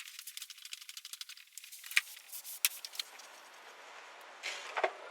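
Light metallic clicking and rattling, a quick run of small ticks and then a few sharper clinks over a soft hiss, as from hand tools and small metal parts being handled.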